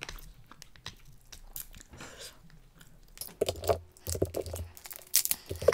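Close-up eating sounds of snow crab: small clicks and crackles of crab shell being picked apart by hand, then louder chewing and mouth sounds from about three seconds in.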